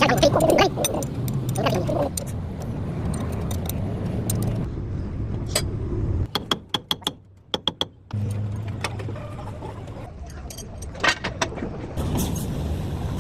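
Metal clinks and rattles of tools and parts in a truck repair shop, over a steady low hum that cuts out about six seconds in and comes back two seconds later.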